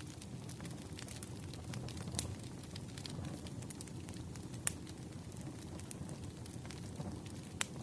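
Wood fire burning: a steady low rumble with irregular crackles and pops from the burning logs, two louder pops near the middle and near the end.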